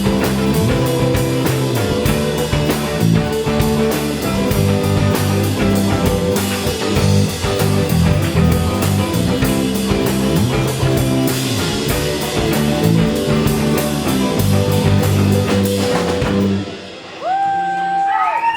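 Live rock band playing: drum kit keeping a steady beat under bass and guitar. The music stops about two seconds before the end, leaving a few short gliding notes.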